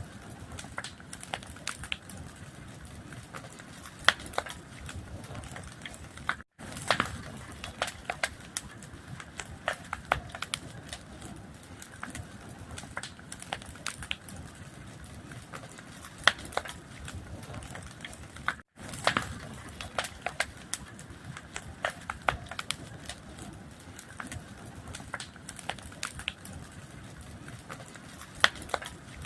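Wood fire crackling, with a steady low rumble and irregular sharp pops and snaps. The sound cuts out for a split second twice, about a third of the way in and again about two thirds in.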